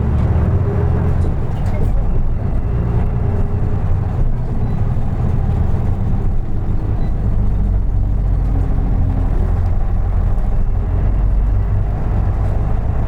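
Isuzu Erga Mio diesel city bus under way, heard from inside the cabin: a steady low engine drone, with faint tones drifting up and down in pitch.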